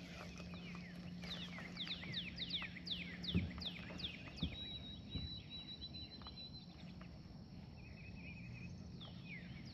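Wild birds singing: a run of quick downward-slurred whistles, about two or three a second, then a thin wavering high trill. A faint low steady hum lies under them.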